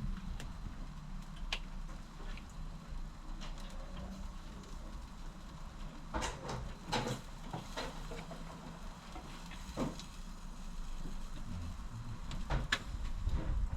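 Scattered sharp clicks and knocks, several close together around the middle and again near the end, over a low steady rumble.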